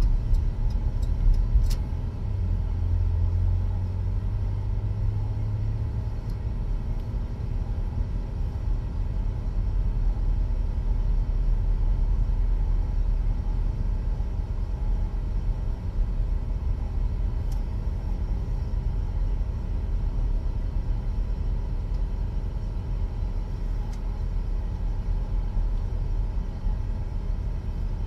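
Car road and engine rumble heard from inside the Buick's cabin while driving, steady throughout, with a low engine hum swelling for a few seconds near the start. A few light ticks sound in the first couple of seconds.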